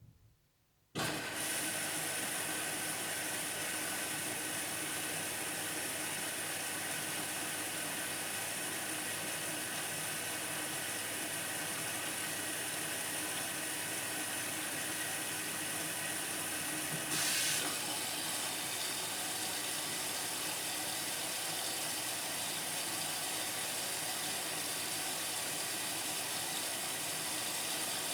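Indesit washing machine taking in water at the start of its wash cycle: a faint click, then about a second in the inlet valve opens and water rushes in with a steady hiss, briefly louder about 17 seconds in.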